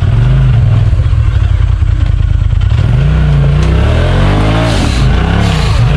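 Side-by-side UTV engine running steadily, then revved up and down several times in quick succession from about three seconds in.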